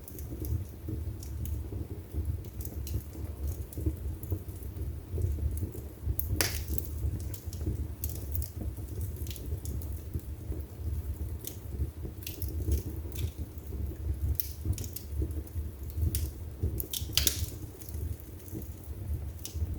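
Wood fire burning in a fireplace: a low steady rumble of flames with scattered crackles, and a louder pop about six seconds in and another a few seconds before the end.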